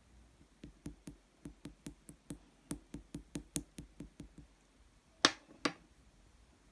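A quick run of light clicking taps, about four to five a second, from handling a tub of clear jelly slime, followed by two louder clicks near the end.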